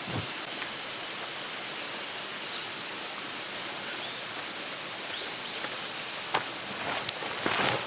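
Steady rushing outdoor ambient noise, with a few light clicks and knocks near the end.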